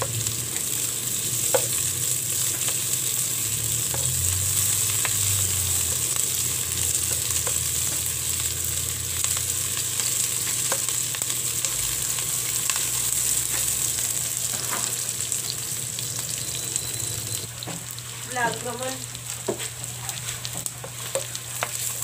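Crushed garlic, sliced red onion and fresh ginger sizzling in hot oil in a non-stick wok. A spatula stirs them, with scattered clicks as it knocks and scrapes the pan.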